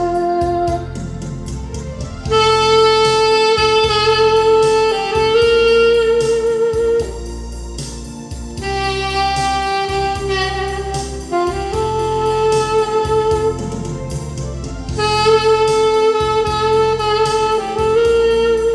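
Alto saxophone playing a slow melody in long held notes, some with a wavering vibrato, in phrases with a short breath about halfway through. Underneath runs a backing accompaniment with a steady low bass line.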